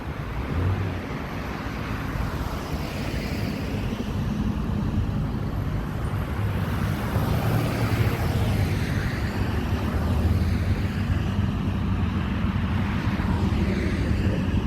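A car being driven: a steady engine drone over road noise, slowly getting louder.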